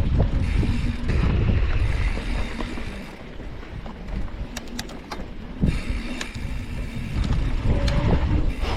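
Wind buffeting an action camera's microphone over the rumble of bicycle tyres on a trail. It quietens for a couple of seconds in the middle, where a few sharp clicks and rattles come through.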